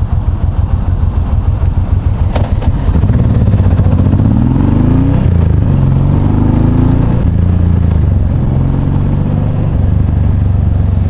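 Honda VTX1800C's 1.8-litre V-twin engine pulling away: its note rises about three seconds in, drops briefly at a gear change and climbs again, then settles into steady cruising.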